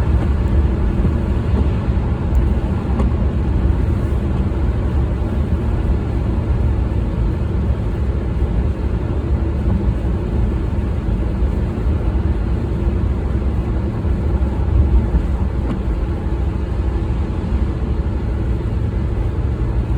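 A car driving: a steady low rumble of engine and tyres on the road.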